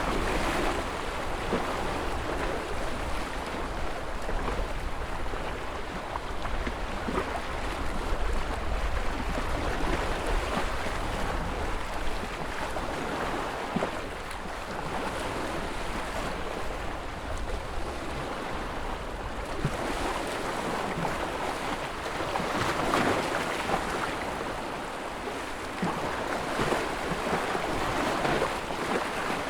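Ocean surf: waves breaking and washing in, a steady rush that swells and eases every few seconds.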